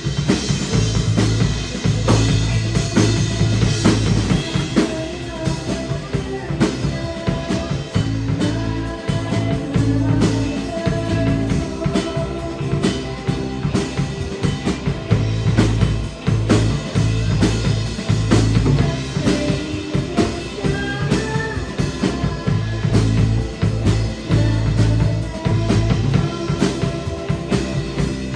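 Live rock band playing, the drum kit keeping a steady beat with bass drum and rimshots under bass and other instruments.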